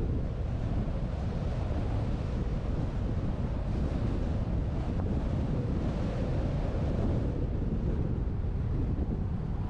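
Wind buffeting the microphone of a GoPro mounted on the roof of a moving truck: a steady low rumble with road noise mixed in.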